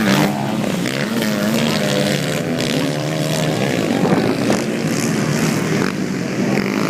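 150 cc motocross dirt bike engines running hard, their pitch rising and falling as the riders rev and change gear.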